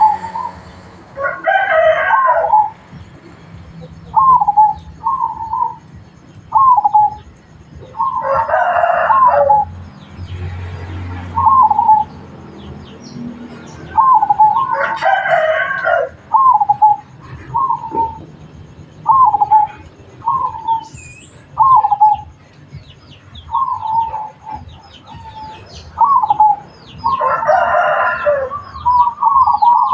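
Zebra doves (perkutut) cooing in short, repeated staccato notes all through. Four times a louder, longer call cuts across them, a rooster crowing, and faint high chirps of small birds sound in the background.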